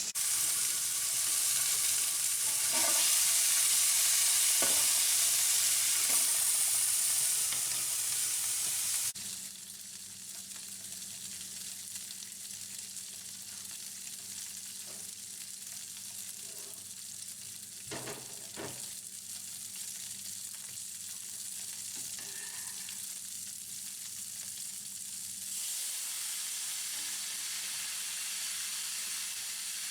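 Pork chorizo sizzling as it fries in a pan, with a steady hiss. It is loud at first, drops suddenly about nine seconds in, and rises a little again near the end, with a couple of light knocks of a utensil in the pan around the middle.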